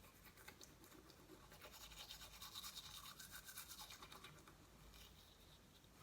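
Faint toothbrush scrubbing teeth in quick, rhythmic strokes, loudest in the middle.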